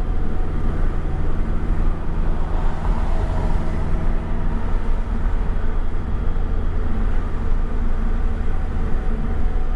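Subaru flat-four (boxer) engine with a modified exhaust, running steadily at low revs.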